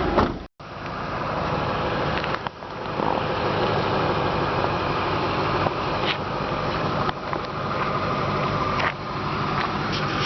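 2006 Ford Mustang GT's 4.6-litre V8 idling steadily, with a few faint clicks over it.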